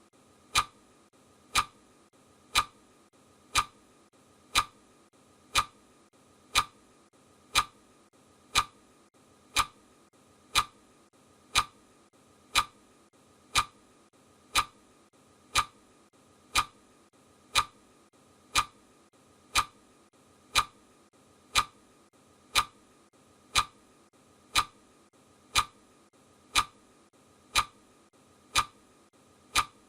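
Steady ticking: one sharp click about every second, each alike and evenly spaced.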